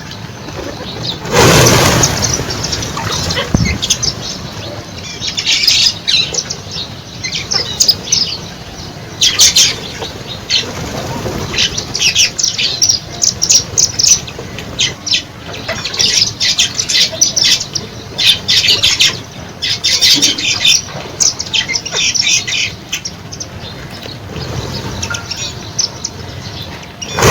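A flock of birds at a feeding spot, chirping in rapid high clusters, with a few brief rushes of wingbeats as birds take off.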